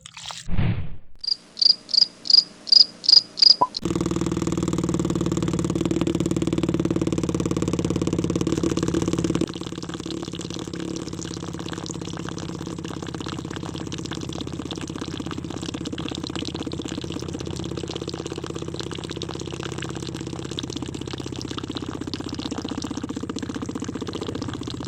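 A small DC hobby motor from a miniature science-project build runs with a steady buzz, louder at first and then dropping to a lower level about a third of the way in. Before it starts there is a short falling sweep and six short, evenly spaced high beeps.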